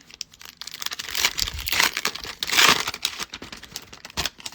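Plastic foil trading-card pack wrapper being crinkled and torn by hand, a run of crackling rustles that is loudest between about one and three seconds in.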